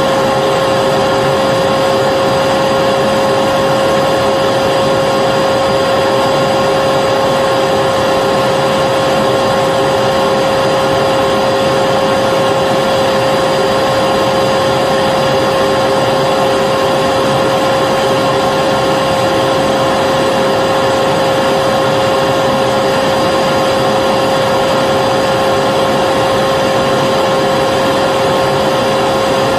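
Vacuum cleaner motor running continuously with a steady whine over an even rushing of air, with no change in pitch or level.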